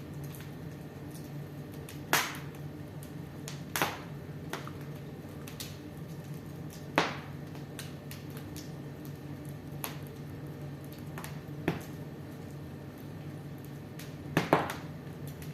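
Fire burning in a fireplace, with sharp crackles and pops every second or few over a steady low rumble; the loudest pops come about two, seven and fourteen seconds in.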